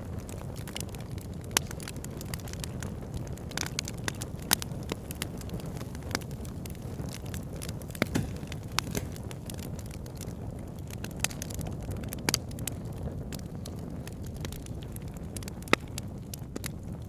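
Wood fire burning in a fireplace: a steady low rumble of flames with frequent sharp crackles and pops, a handful of them louder than the rest.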